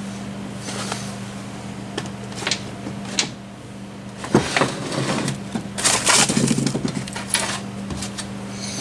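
Metal transmission parts of a Kawasaki Mule clinking and scraping as a fine-toothed gear is worked onto its splined shaft, in scattered clicks and a longer clatter a few seconds in, over a steady low hum.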